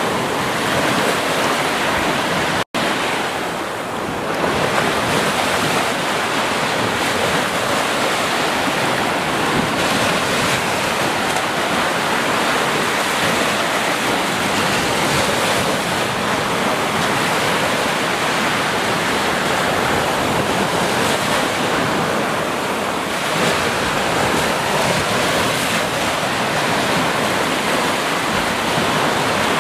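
Ocean surf washing steadily onto a beach, a continuous rush of breaking waves, with a split-second dropout about three seconds in.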